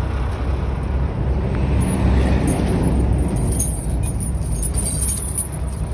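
Train passing: a steady low rumble, a little louder around the middle.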